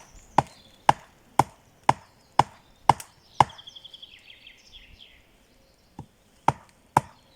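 Axe chopping wood in steady strokes about two a second. The strokes pause for about two and a half seconds near the middle and then start again. A bird trills briefly during the pause.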